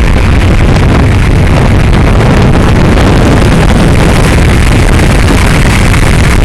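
A car under way, a loud steady rumble with no breaks or clear pitch, heavily overloaded, with wind on the microphone.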